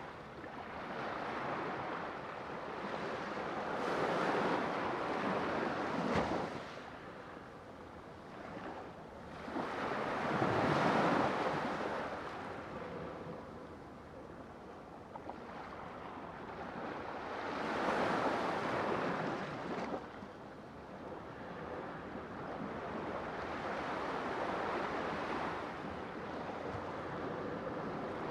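Sea waves breaking and washing in, swelling and fading in slow surges about every seven seconds.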